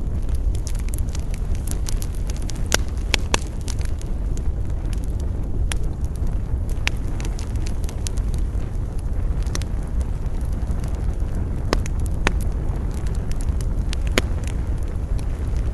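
Wood campfire crackling, with sharp snaps and pops at irregular moments, over a steady low rumble of wind.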